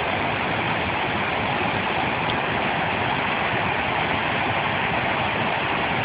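Waterfall, its falling water making a steady, unbroken rushing noise.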